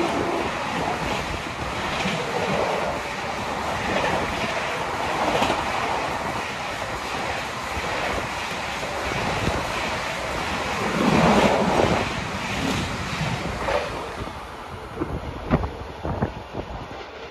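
Passenger coaches of an Indian Railways Tejas Rajdhani Express rolling past close by: a steady rush of air and wheel noise with clicks over the rail joints. It eases off after about fourteen seconds to a quieter background with scattered clicks.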